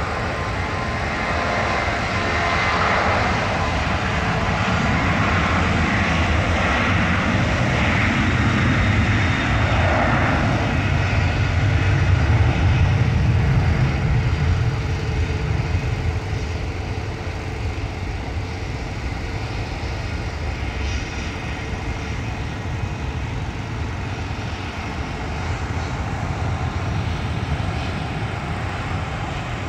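Jet airliner engines: a loud rumble and hiss that builds to its loudest about halfway through, then slowly fades.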